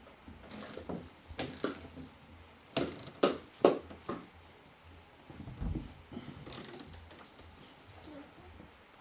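Irregular clicks, knocks and rattles of something being handled, with a sharp knock about a third of the way in and a dull low thud a little past the middle.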